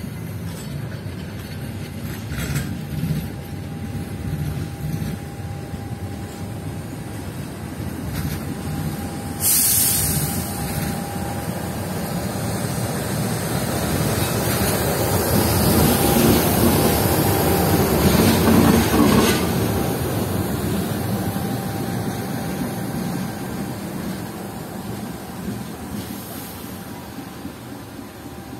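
Diesel-hauled passenger train passing on the near track: a steady rumble of wheels on rail. It grows loudest as the KAI diesel-electric locomotive goes by just past the middle, then fades. A sudden burst of hiss comes about a third of the way in.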